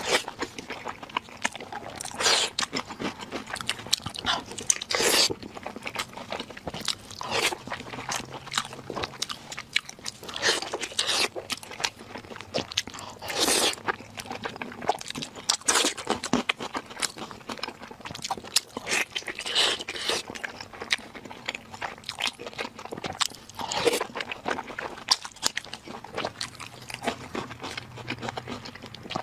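Close-miked eating sounds from a mukbang: a person biting, crunching and chewing food, in irregular bites every second or two.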